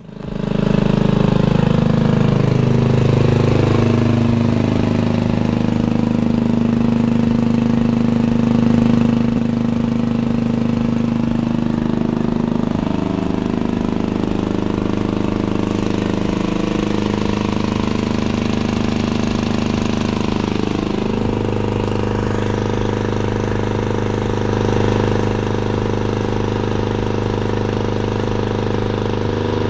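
An old engine running steadily. Its speed shifts around the middle, then picks up to a faster steady run about two-thirds of the way through.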